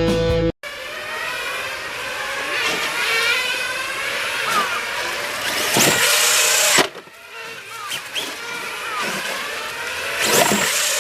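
Kyosho Mad Crusher VE brushless-electric RC monster truck driven hard on a 4S LiPo. The motor's whine rises and falls with the throttle over tyre and ground noise, with a few sharp knocks. It goes briefly quieter about seven seconds in.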